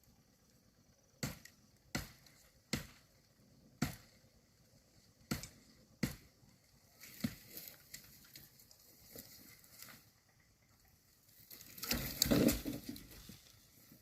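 Six sharp chopping strikes about a second apart, then lighter rustling, and a louder stretch of crunching and rustling near the end, as brush is cleared by hand.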